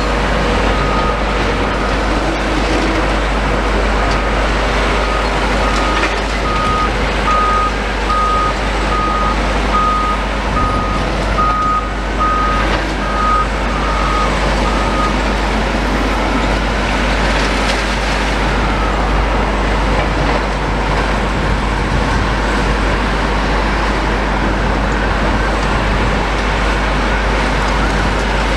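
Heavy demolition machinery running continuously. A reversing alarm beeps at a steady rate for about ten seconds in the first half.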